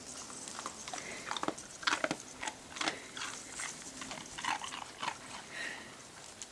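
Dogs moving about in snow: irregular short crunching and scuffing sounds, with dog noises mixed in.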